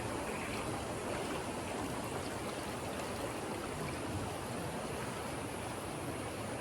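A stream rushing steadily, an even wash of flowing water with no breaks.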